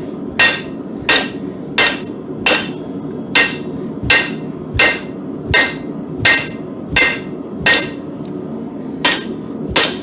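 Hand hammer striking steel on an anvil, about one ringing blow every 0.7 s with a brief pause near the end, as a mild-steel hardy shank is forged even.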